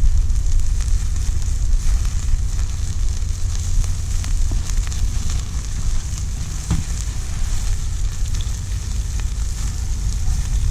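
Meat sizzling over a wood campfire, with steady hissing and scattered sharp crackles of the burning wood, one sharper pop about two thirds of the way through, over a steady low rumble.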